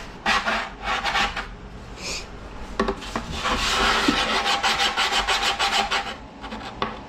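Hand tool scraping down a foam taxidermy deer form in quick back-and-forth strokes, a few at first, then a steadier run of about three strokes a second from about halfway in, shaping and smoothing the form.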